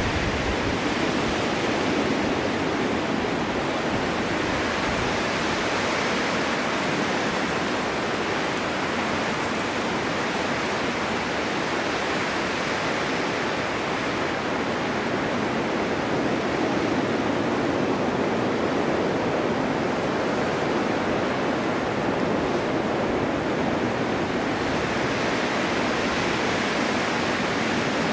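Snowstorm wind blowing steadily: a dense, even rush that swells and eases slowly every several seconds.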